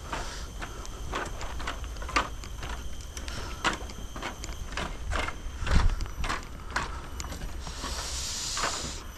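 Footsteps of someone walking on a path at an even pace, about two steps a second, with one heavier step about six seconds in. There is a brief hiss near the end.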